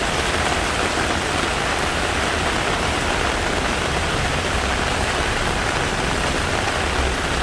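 Heavy rain pouring steadily, an even hiss with no letup.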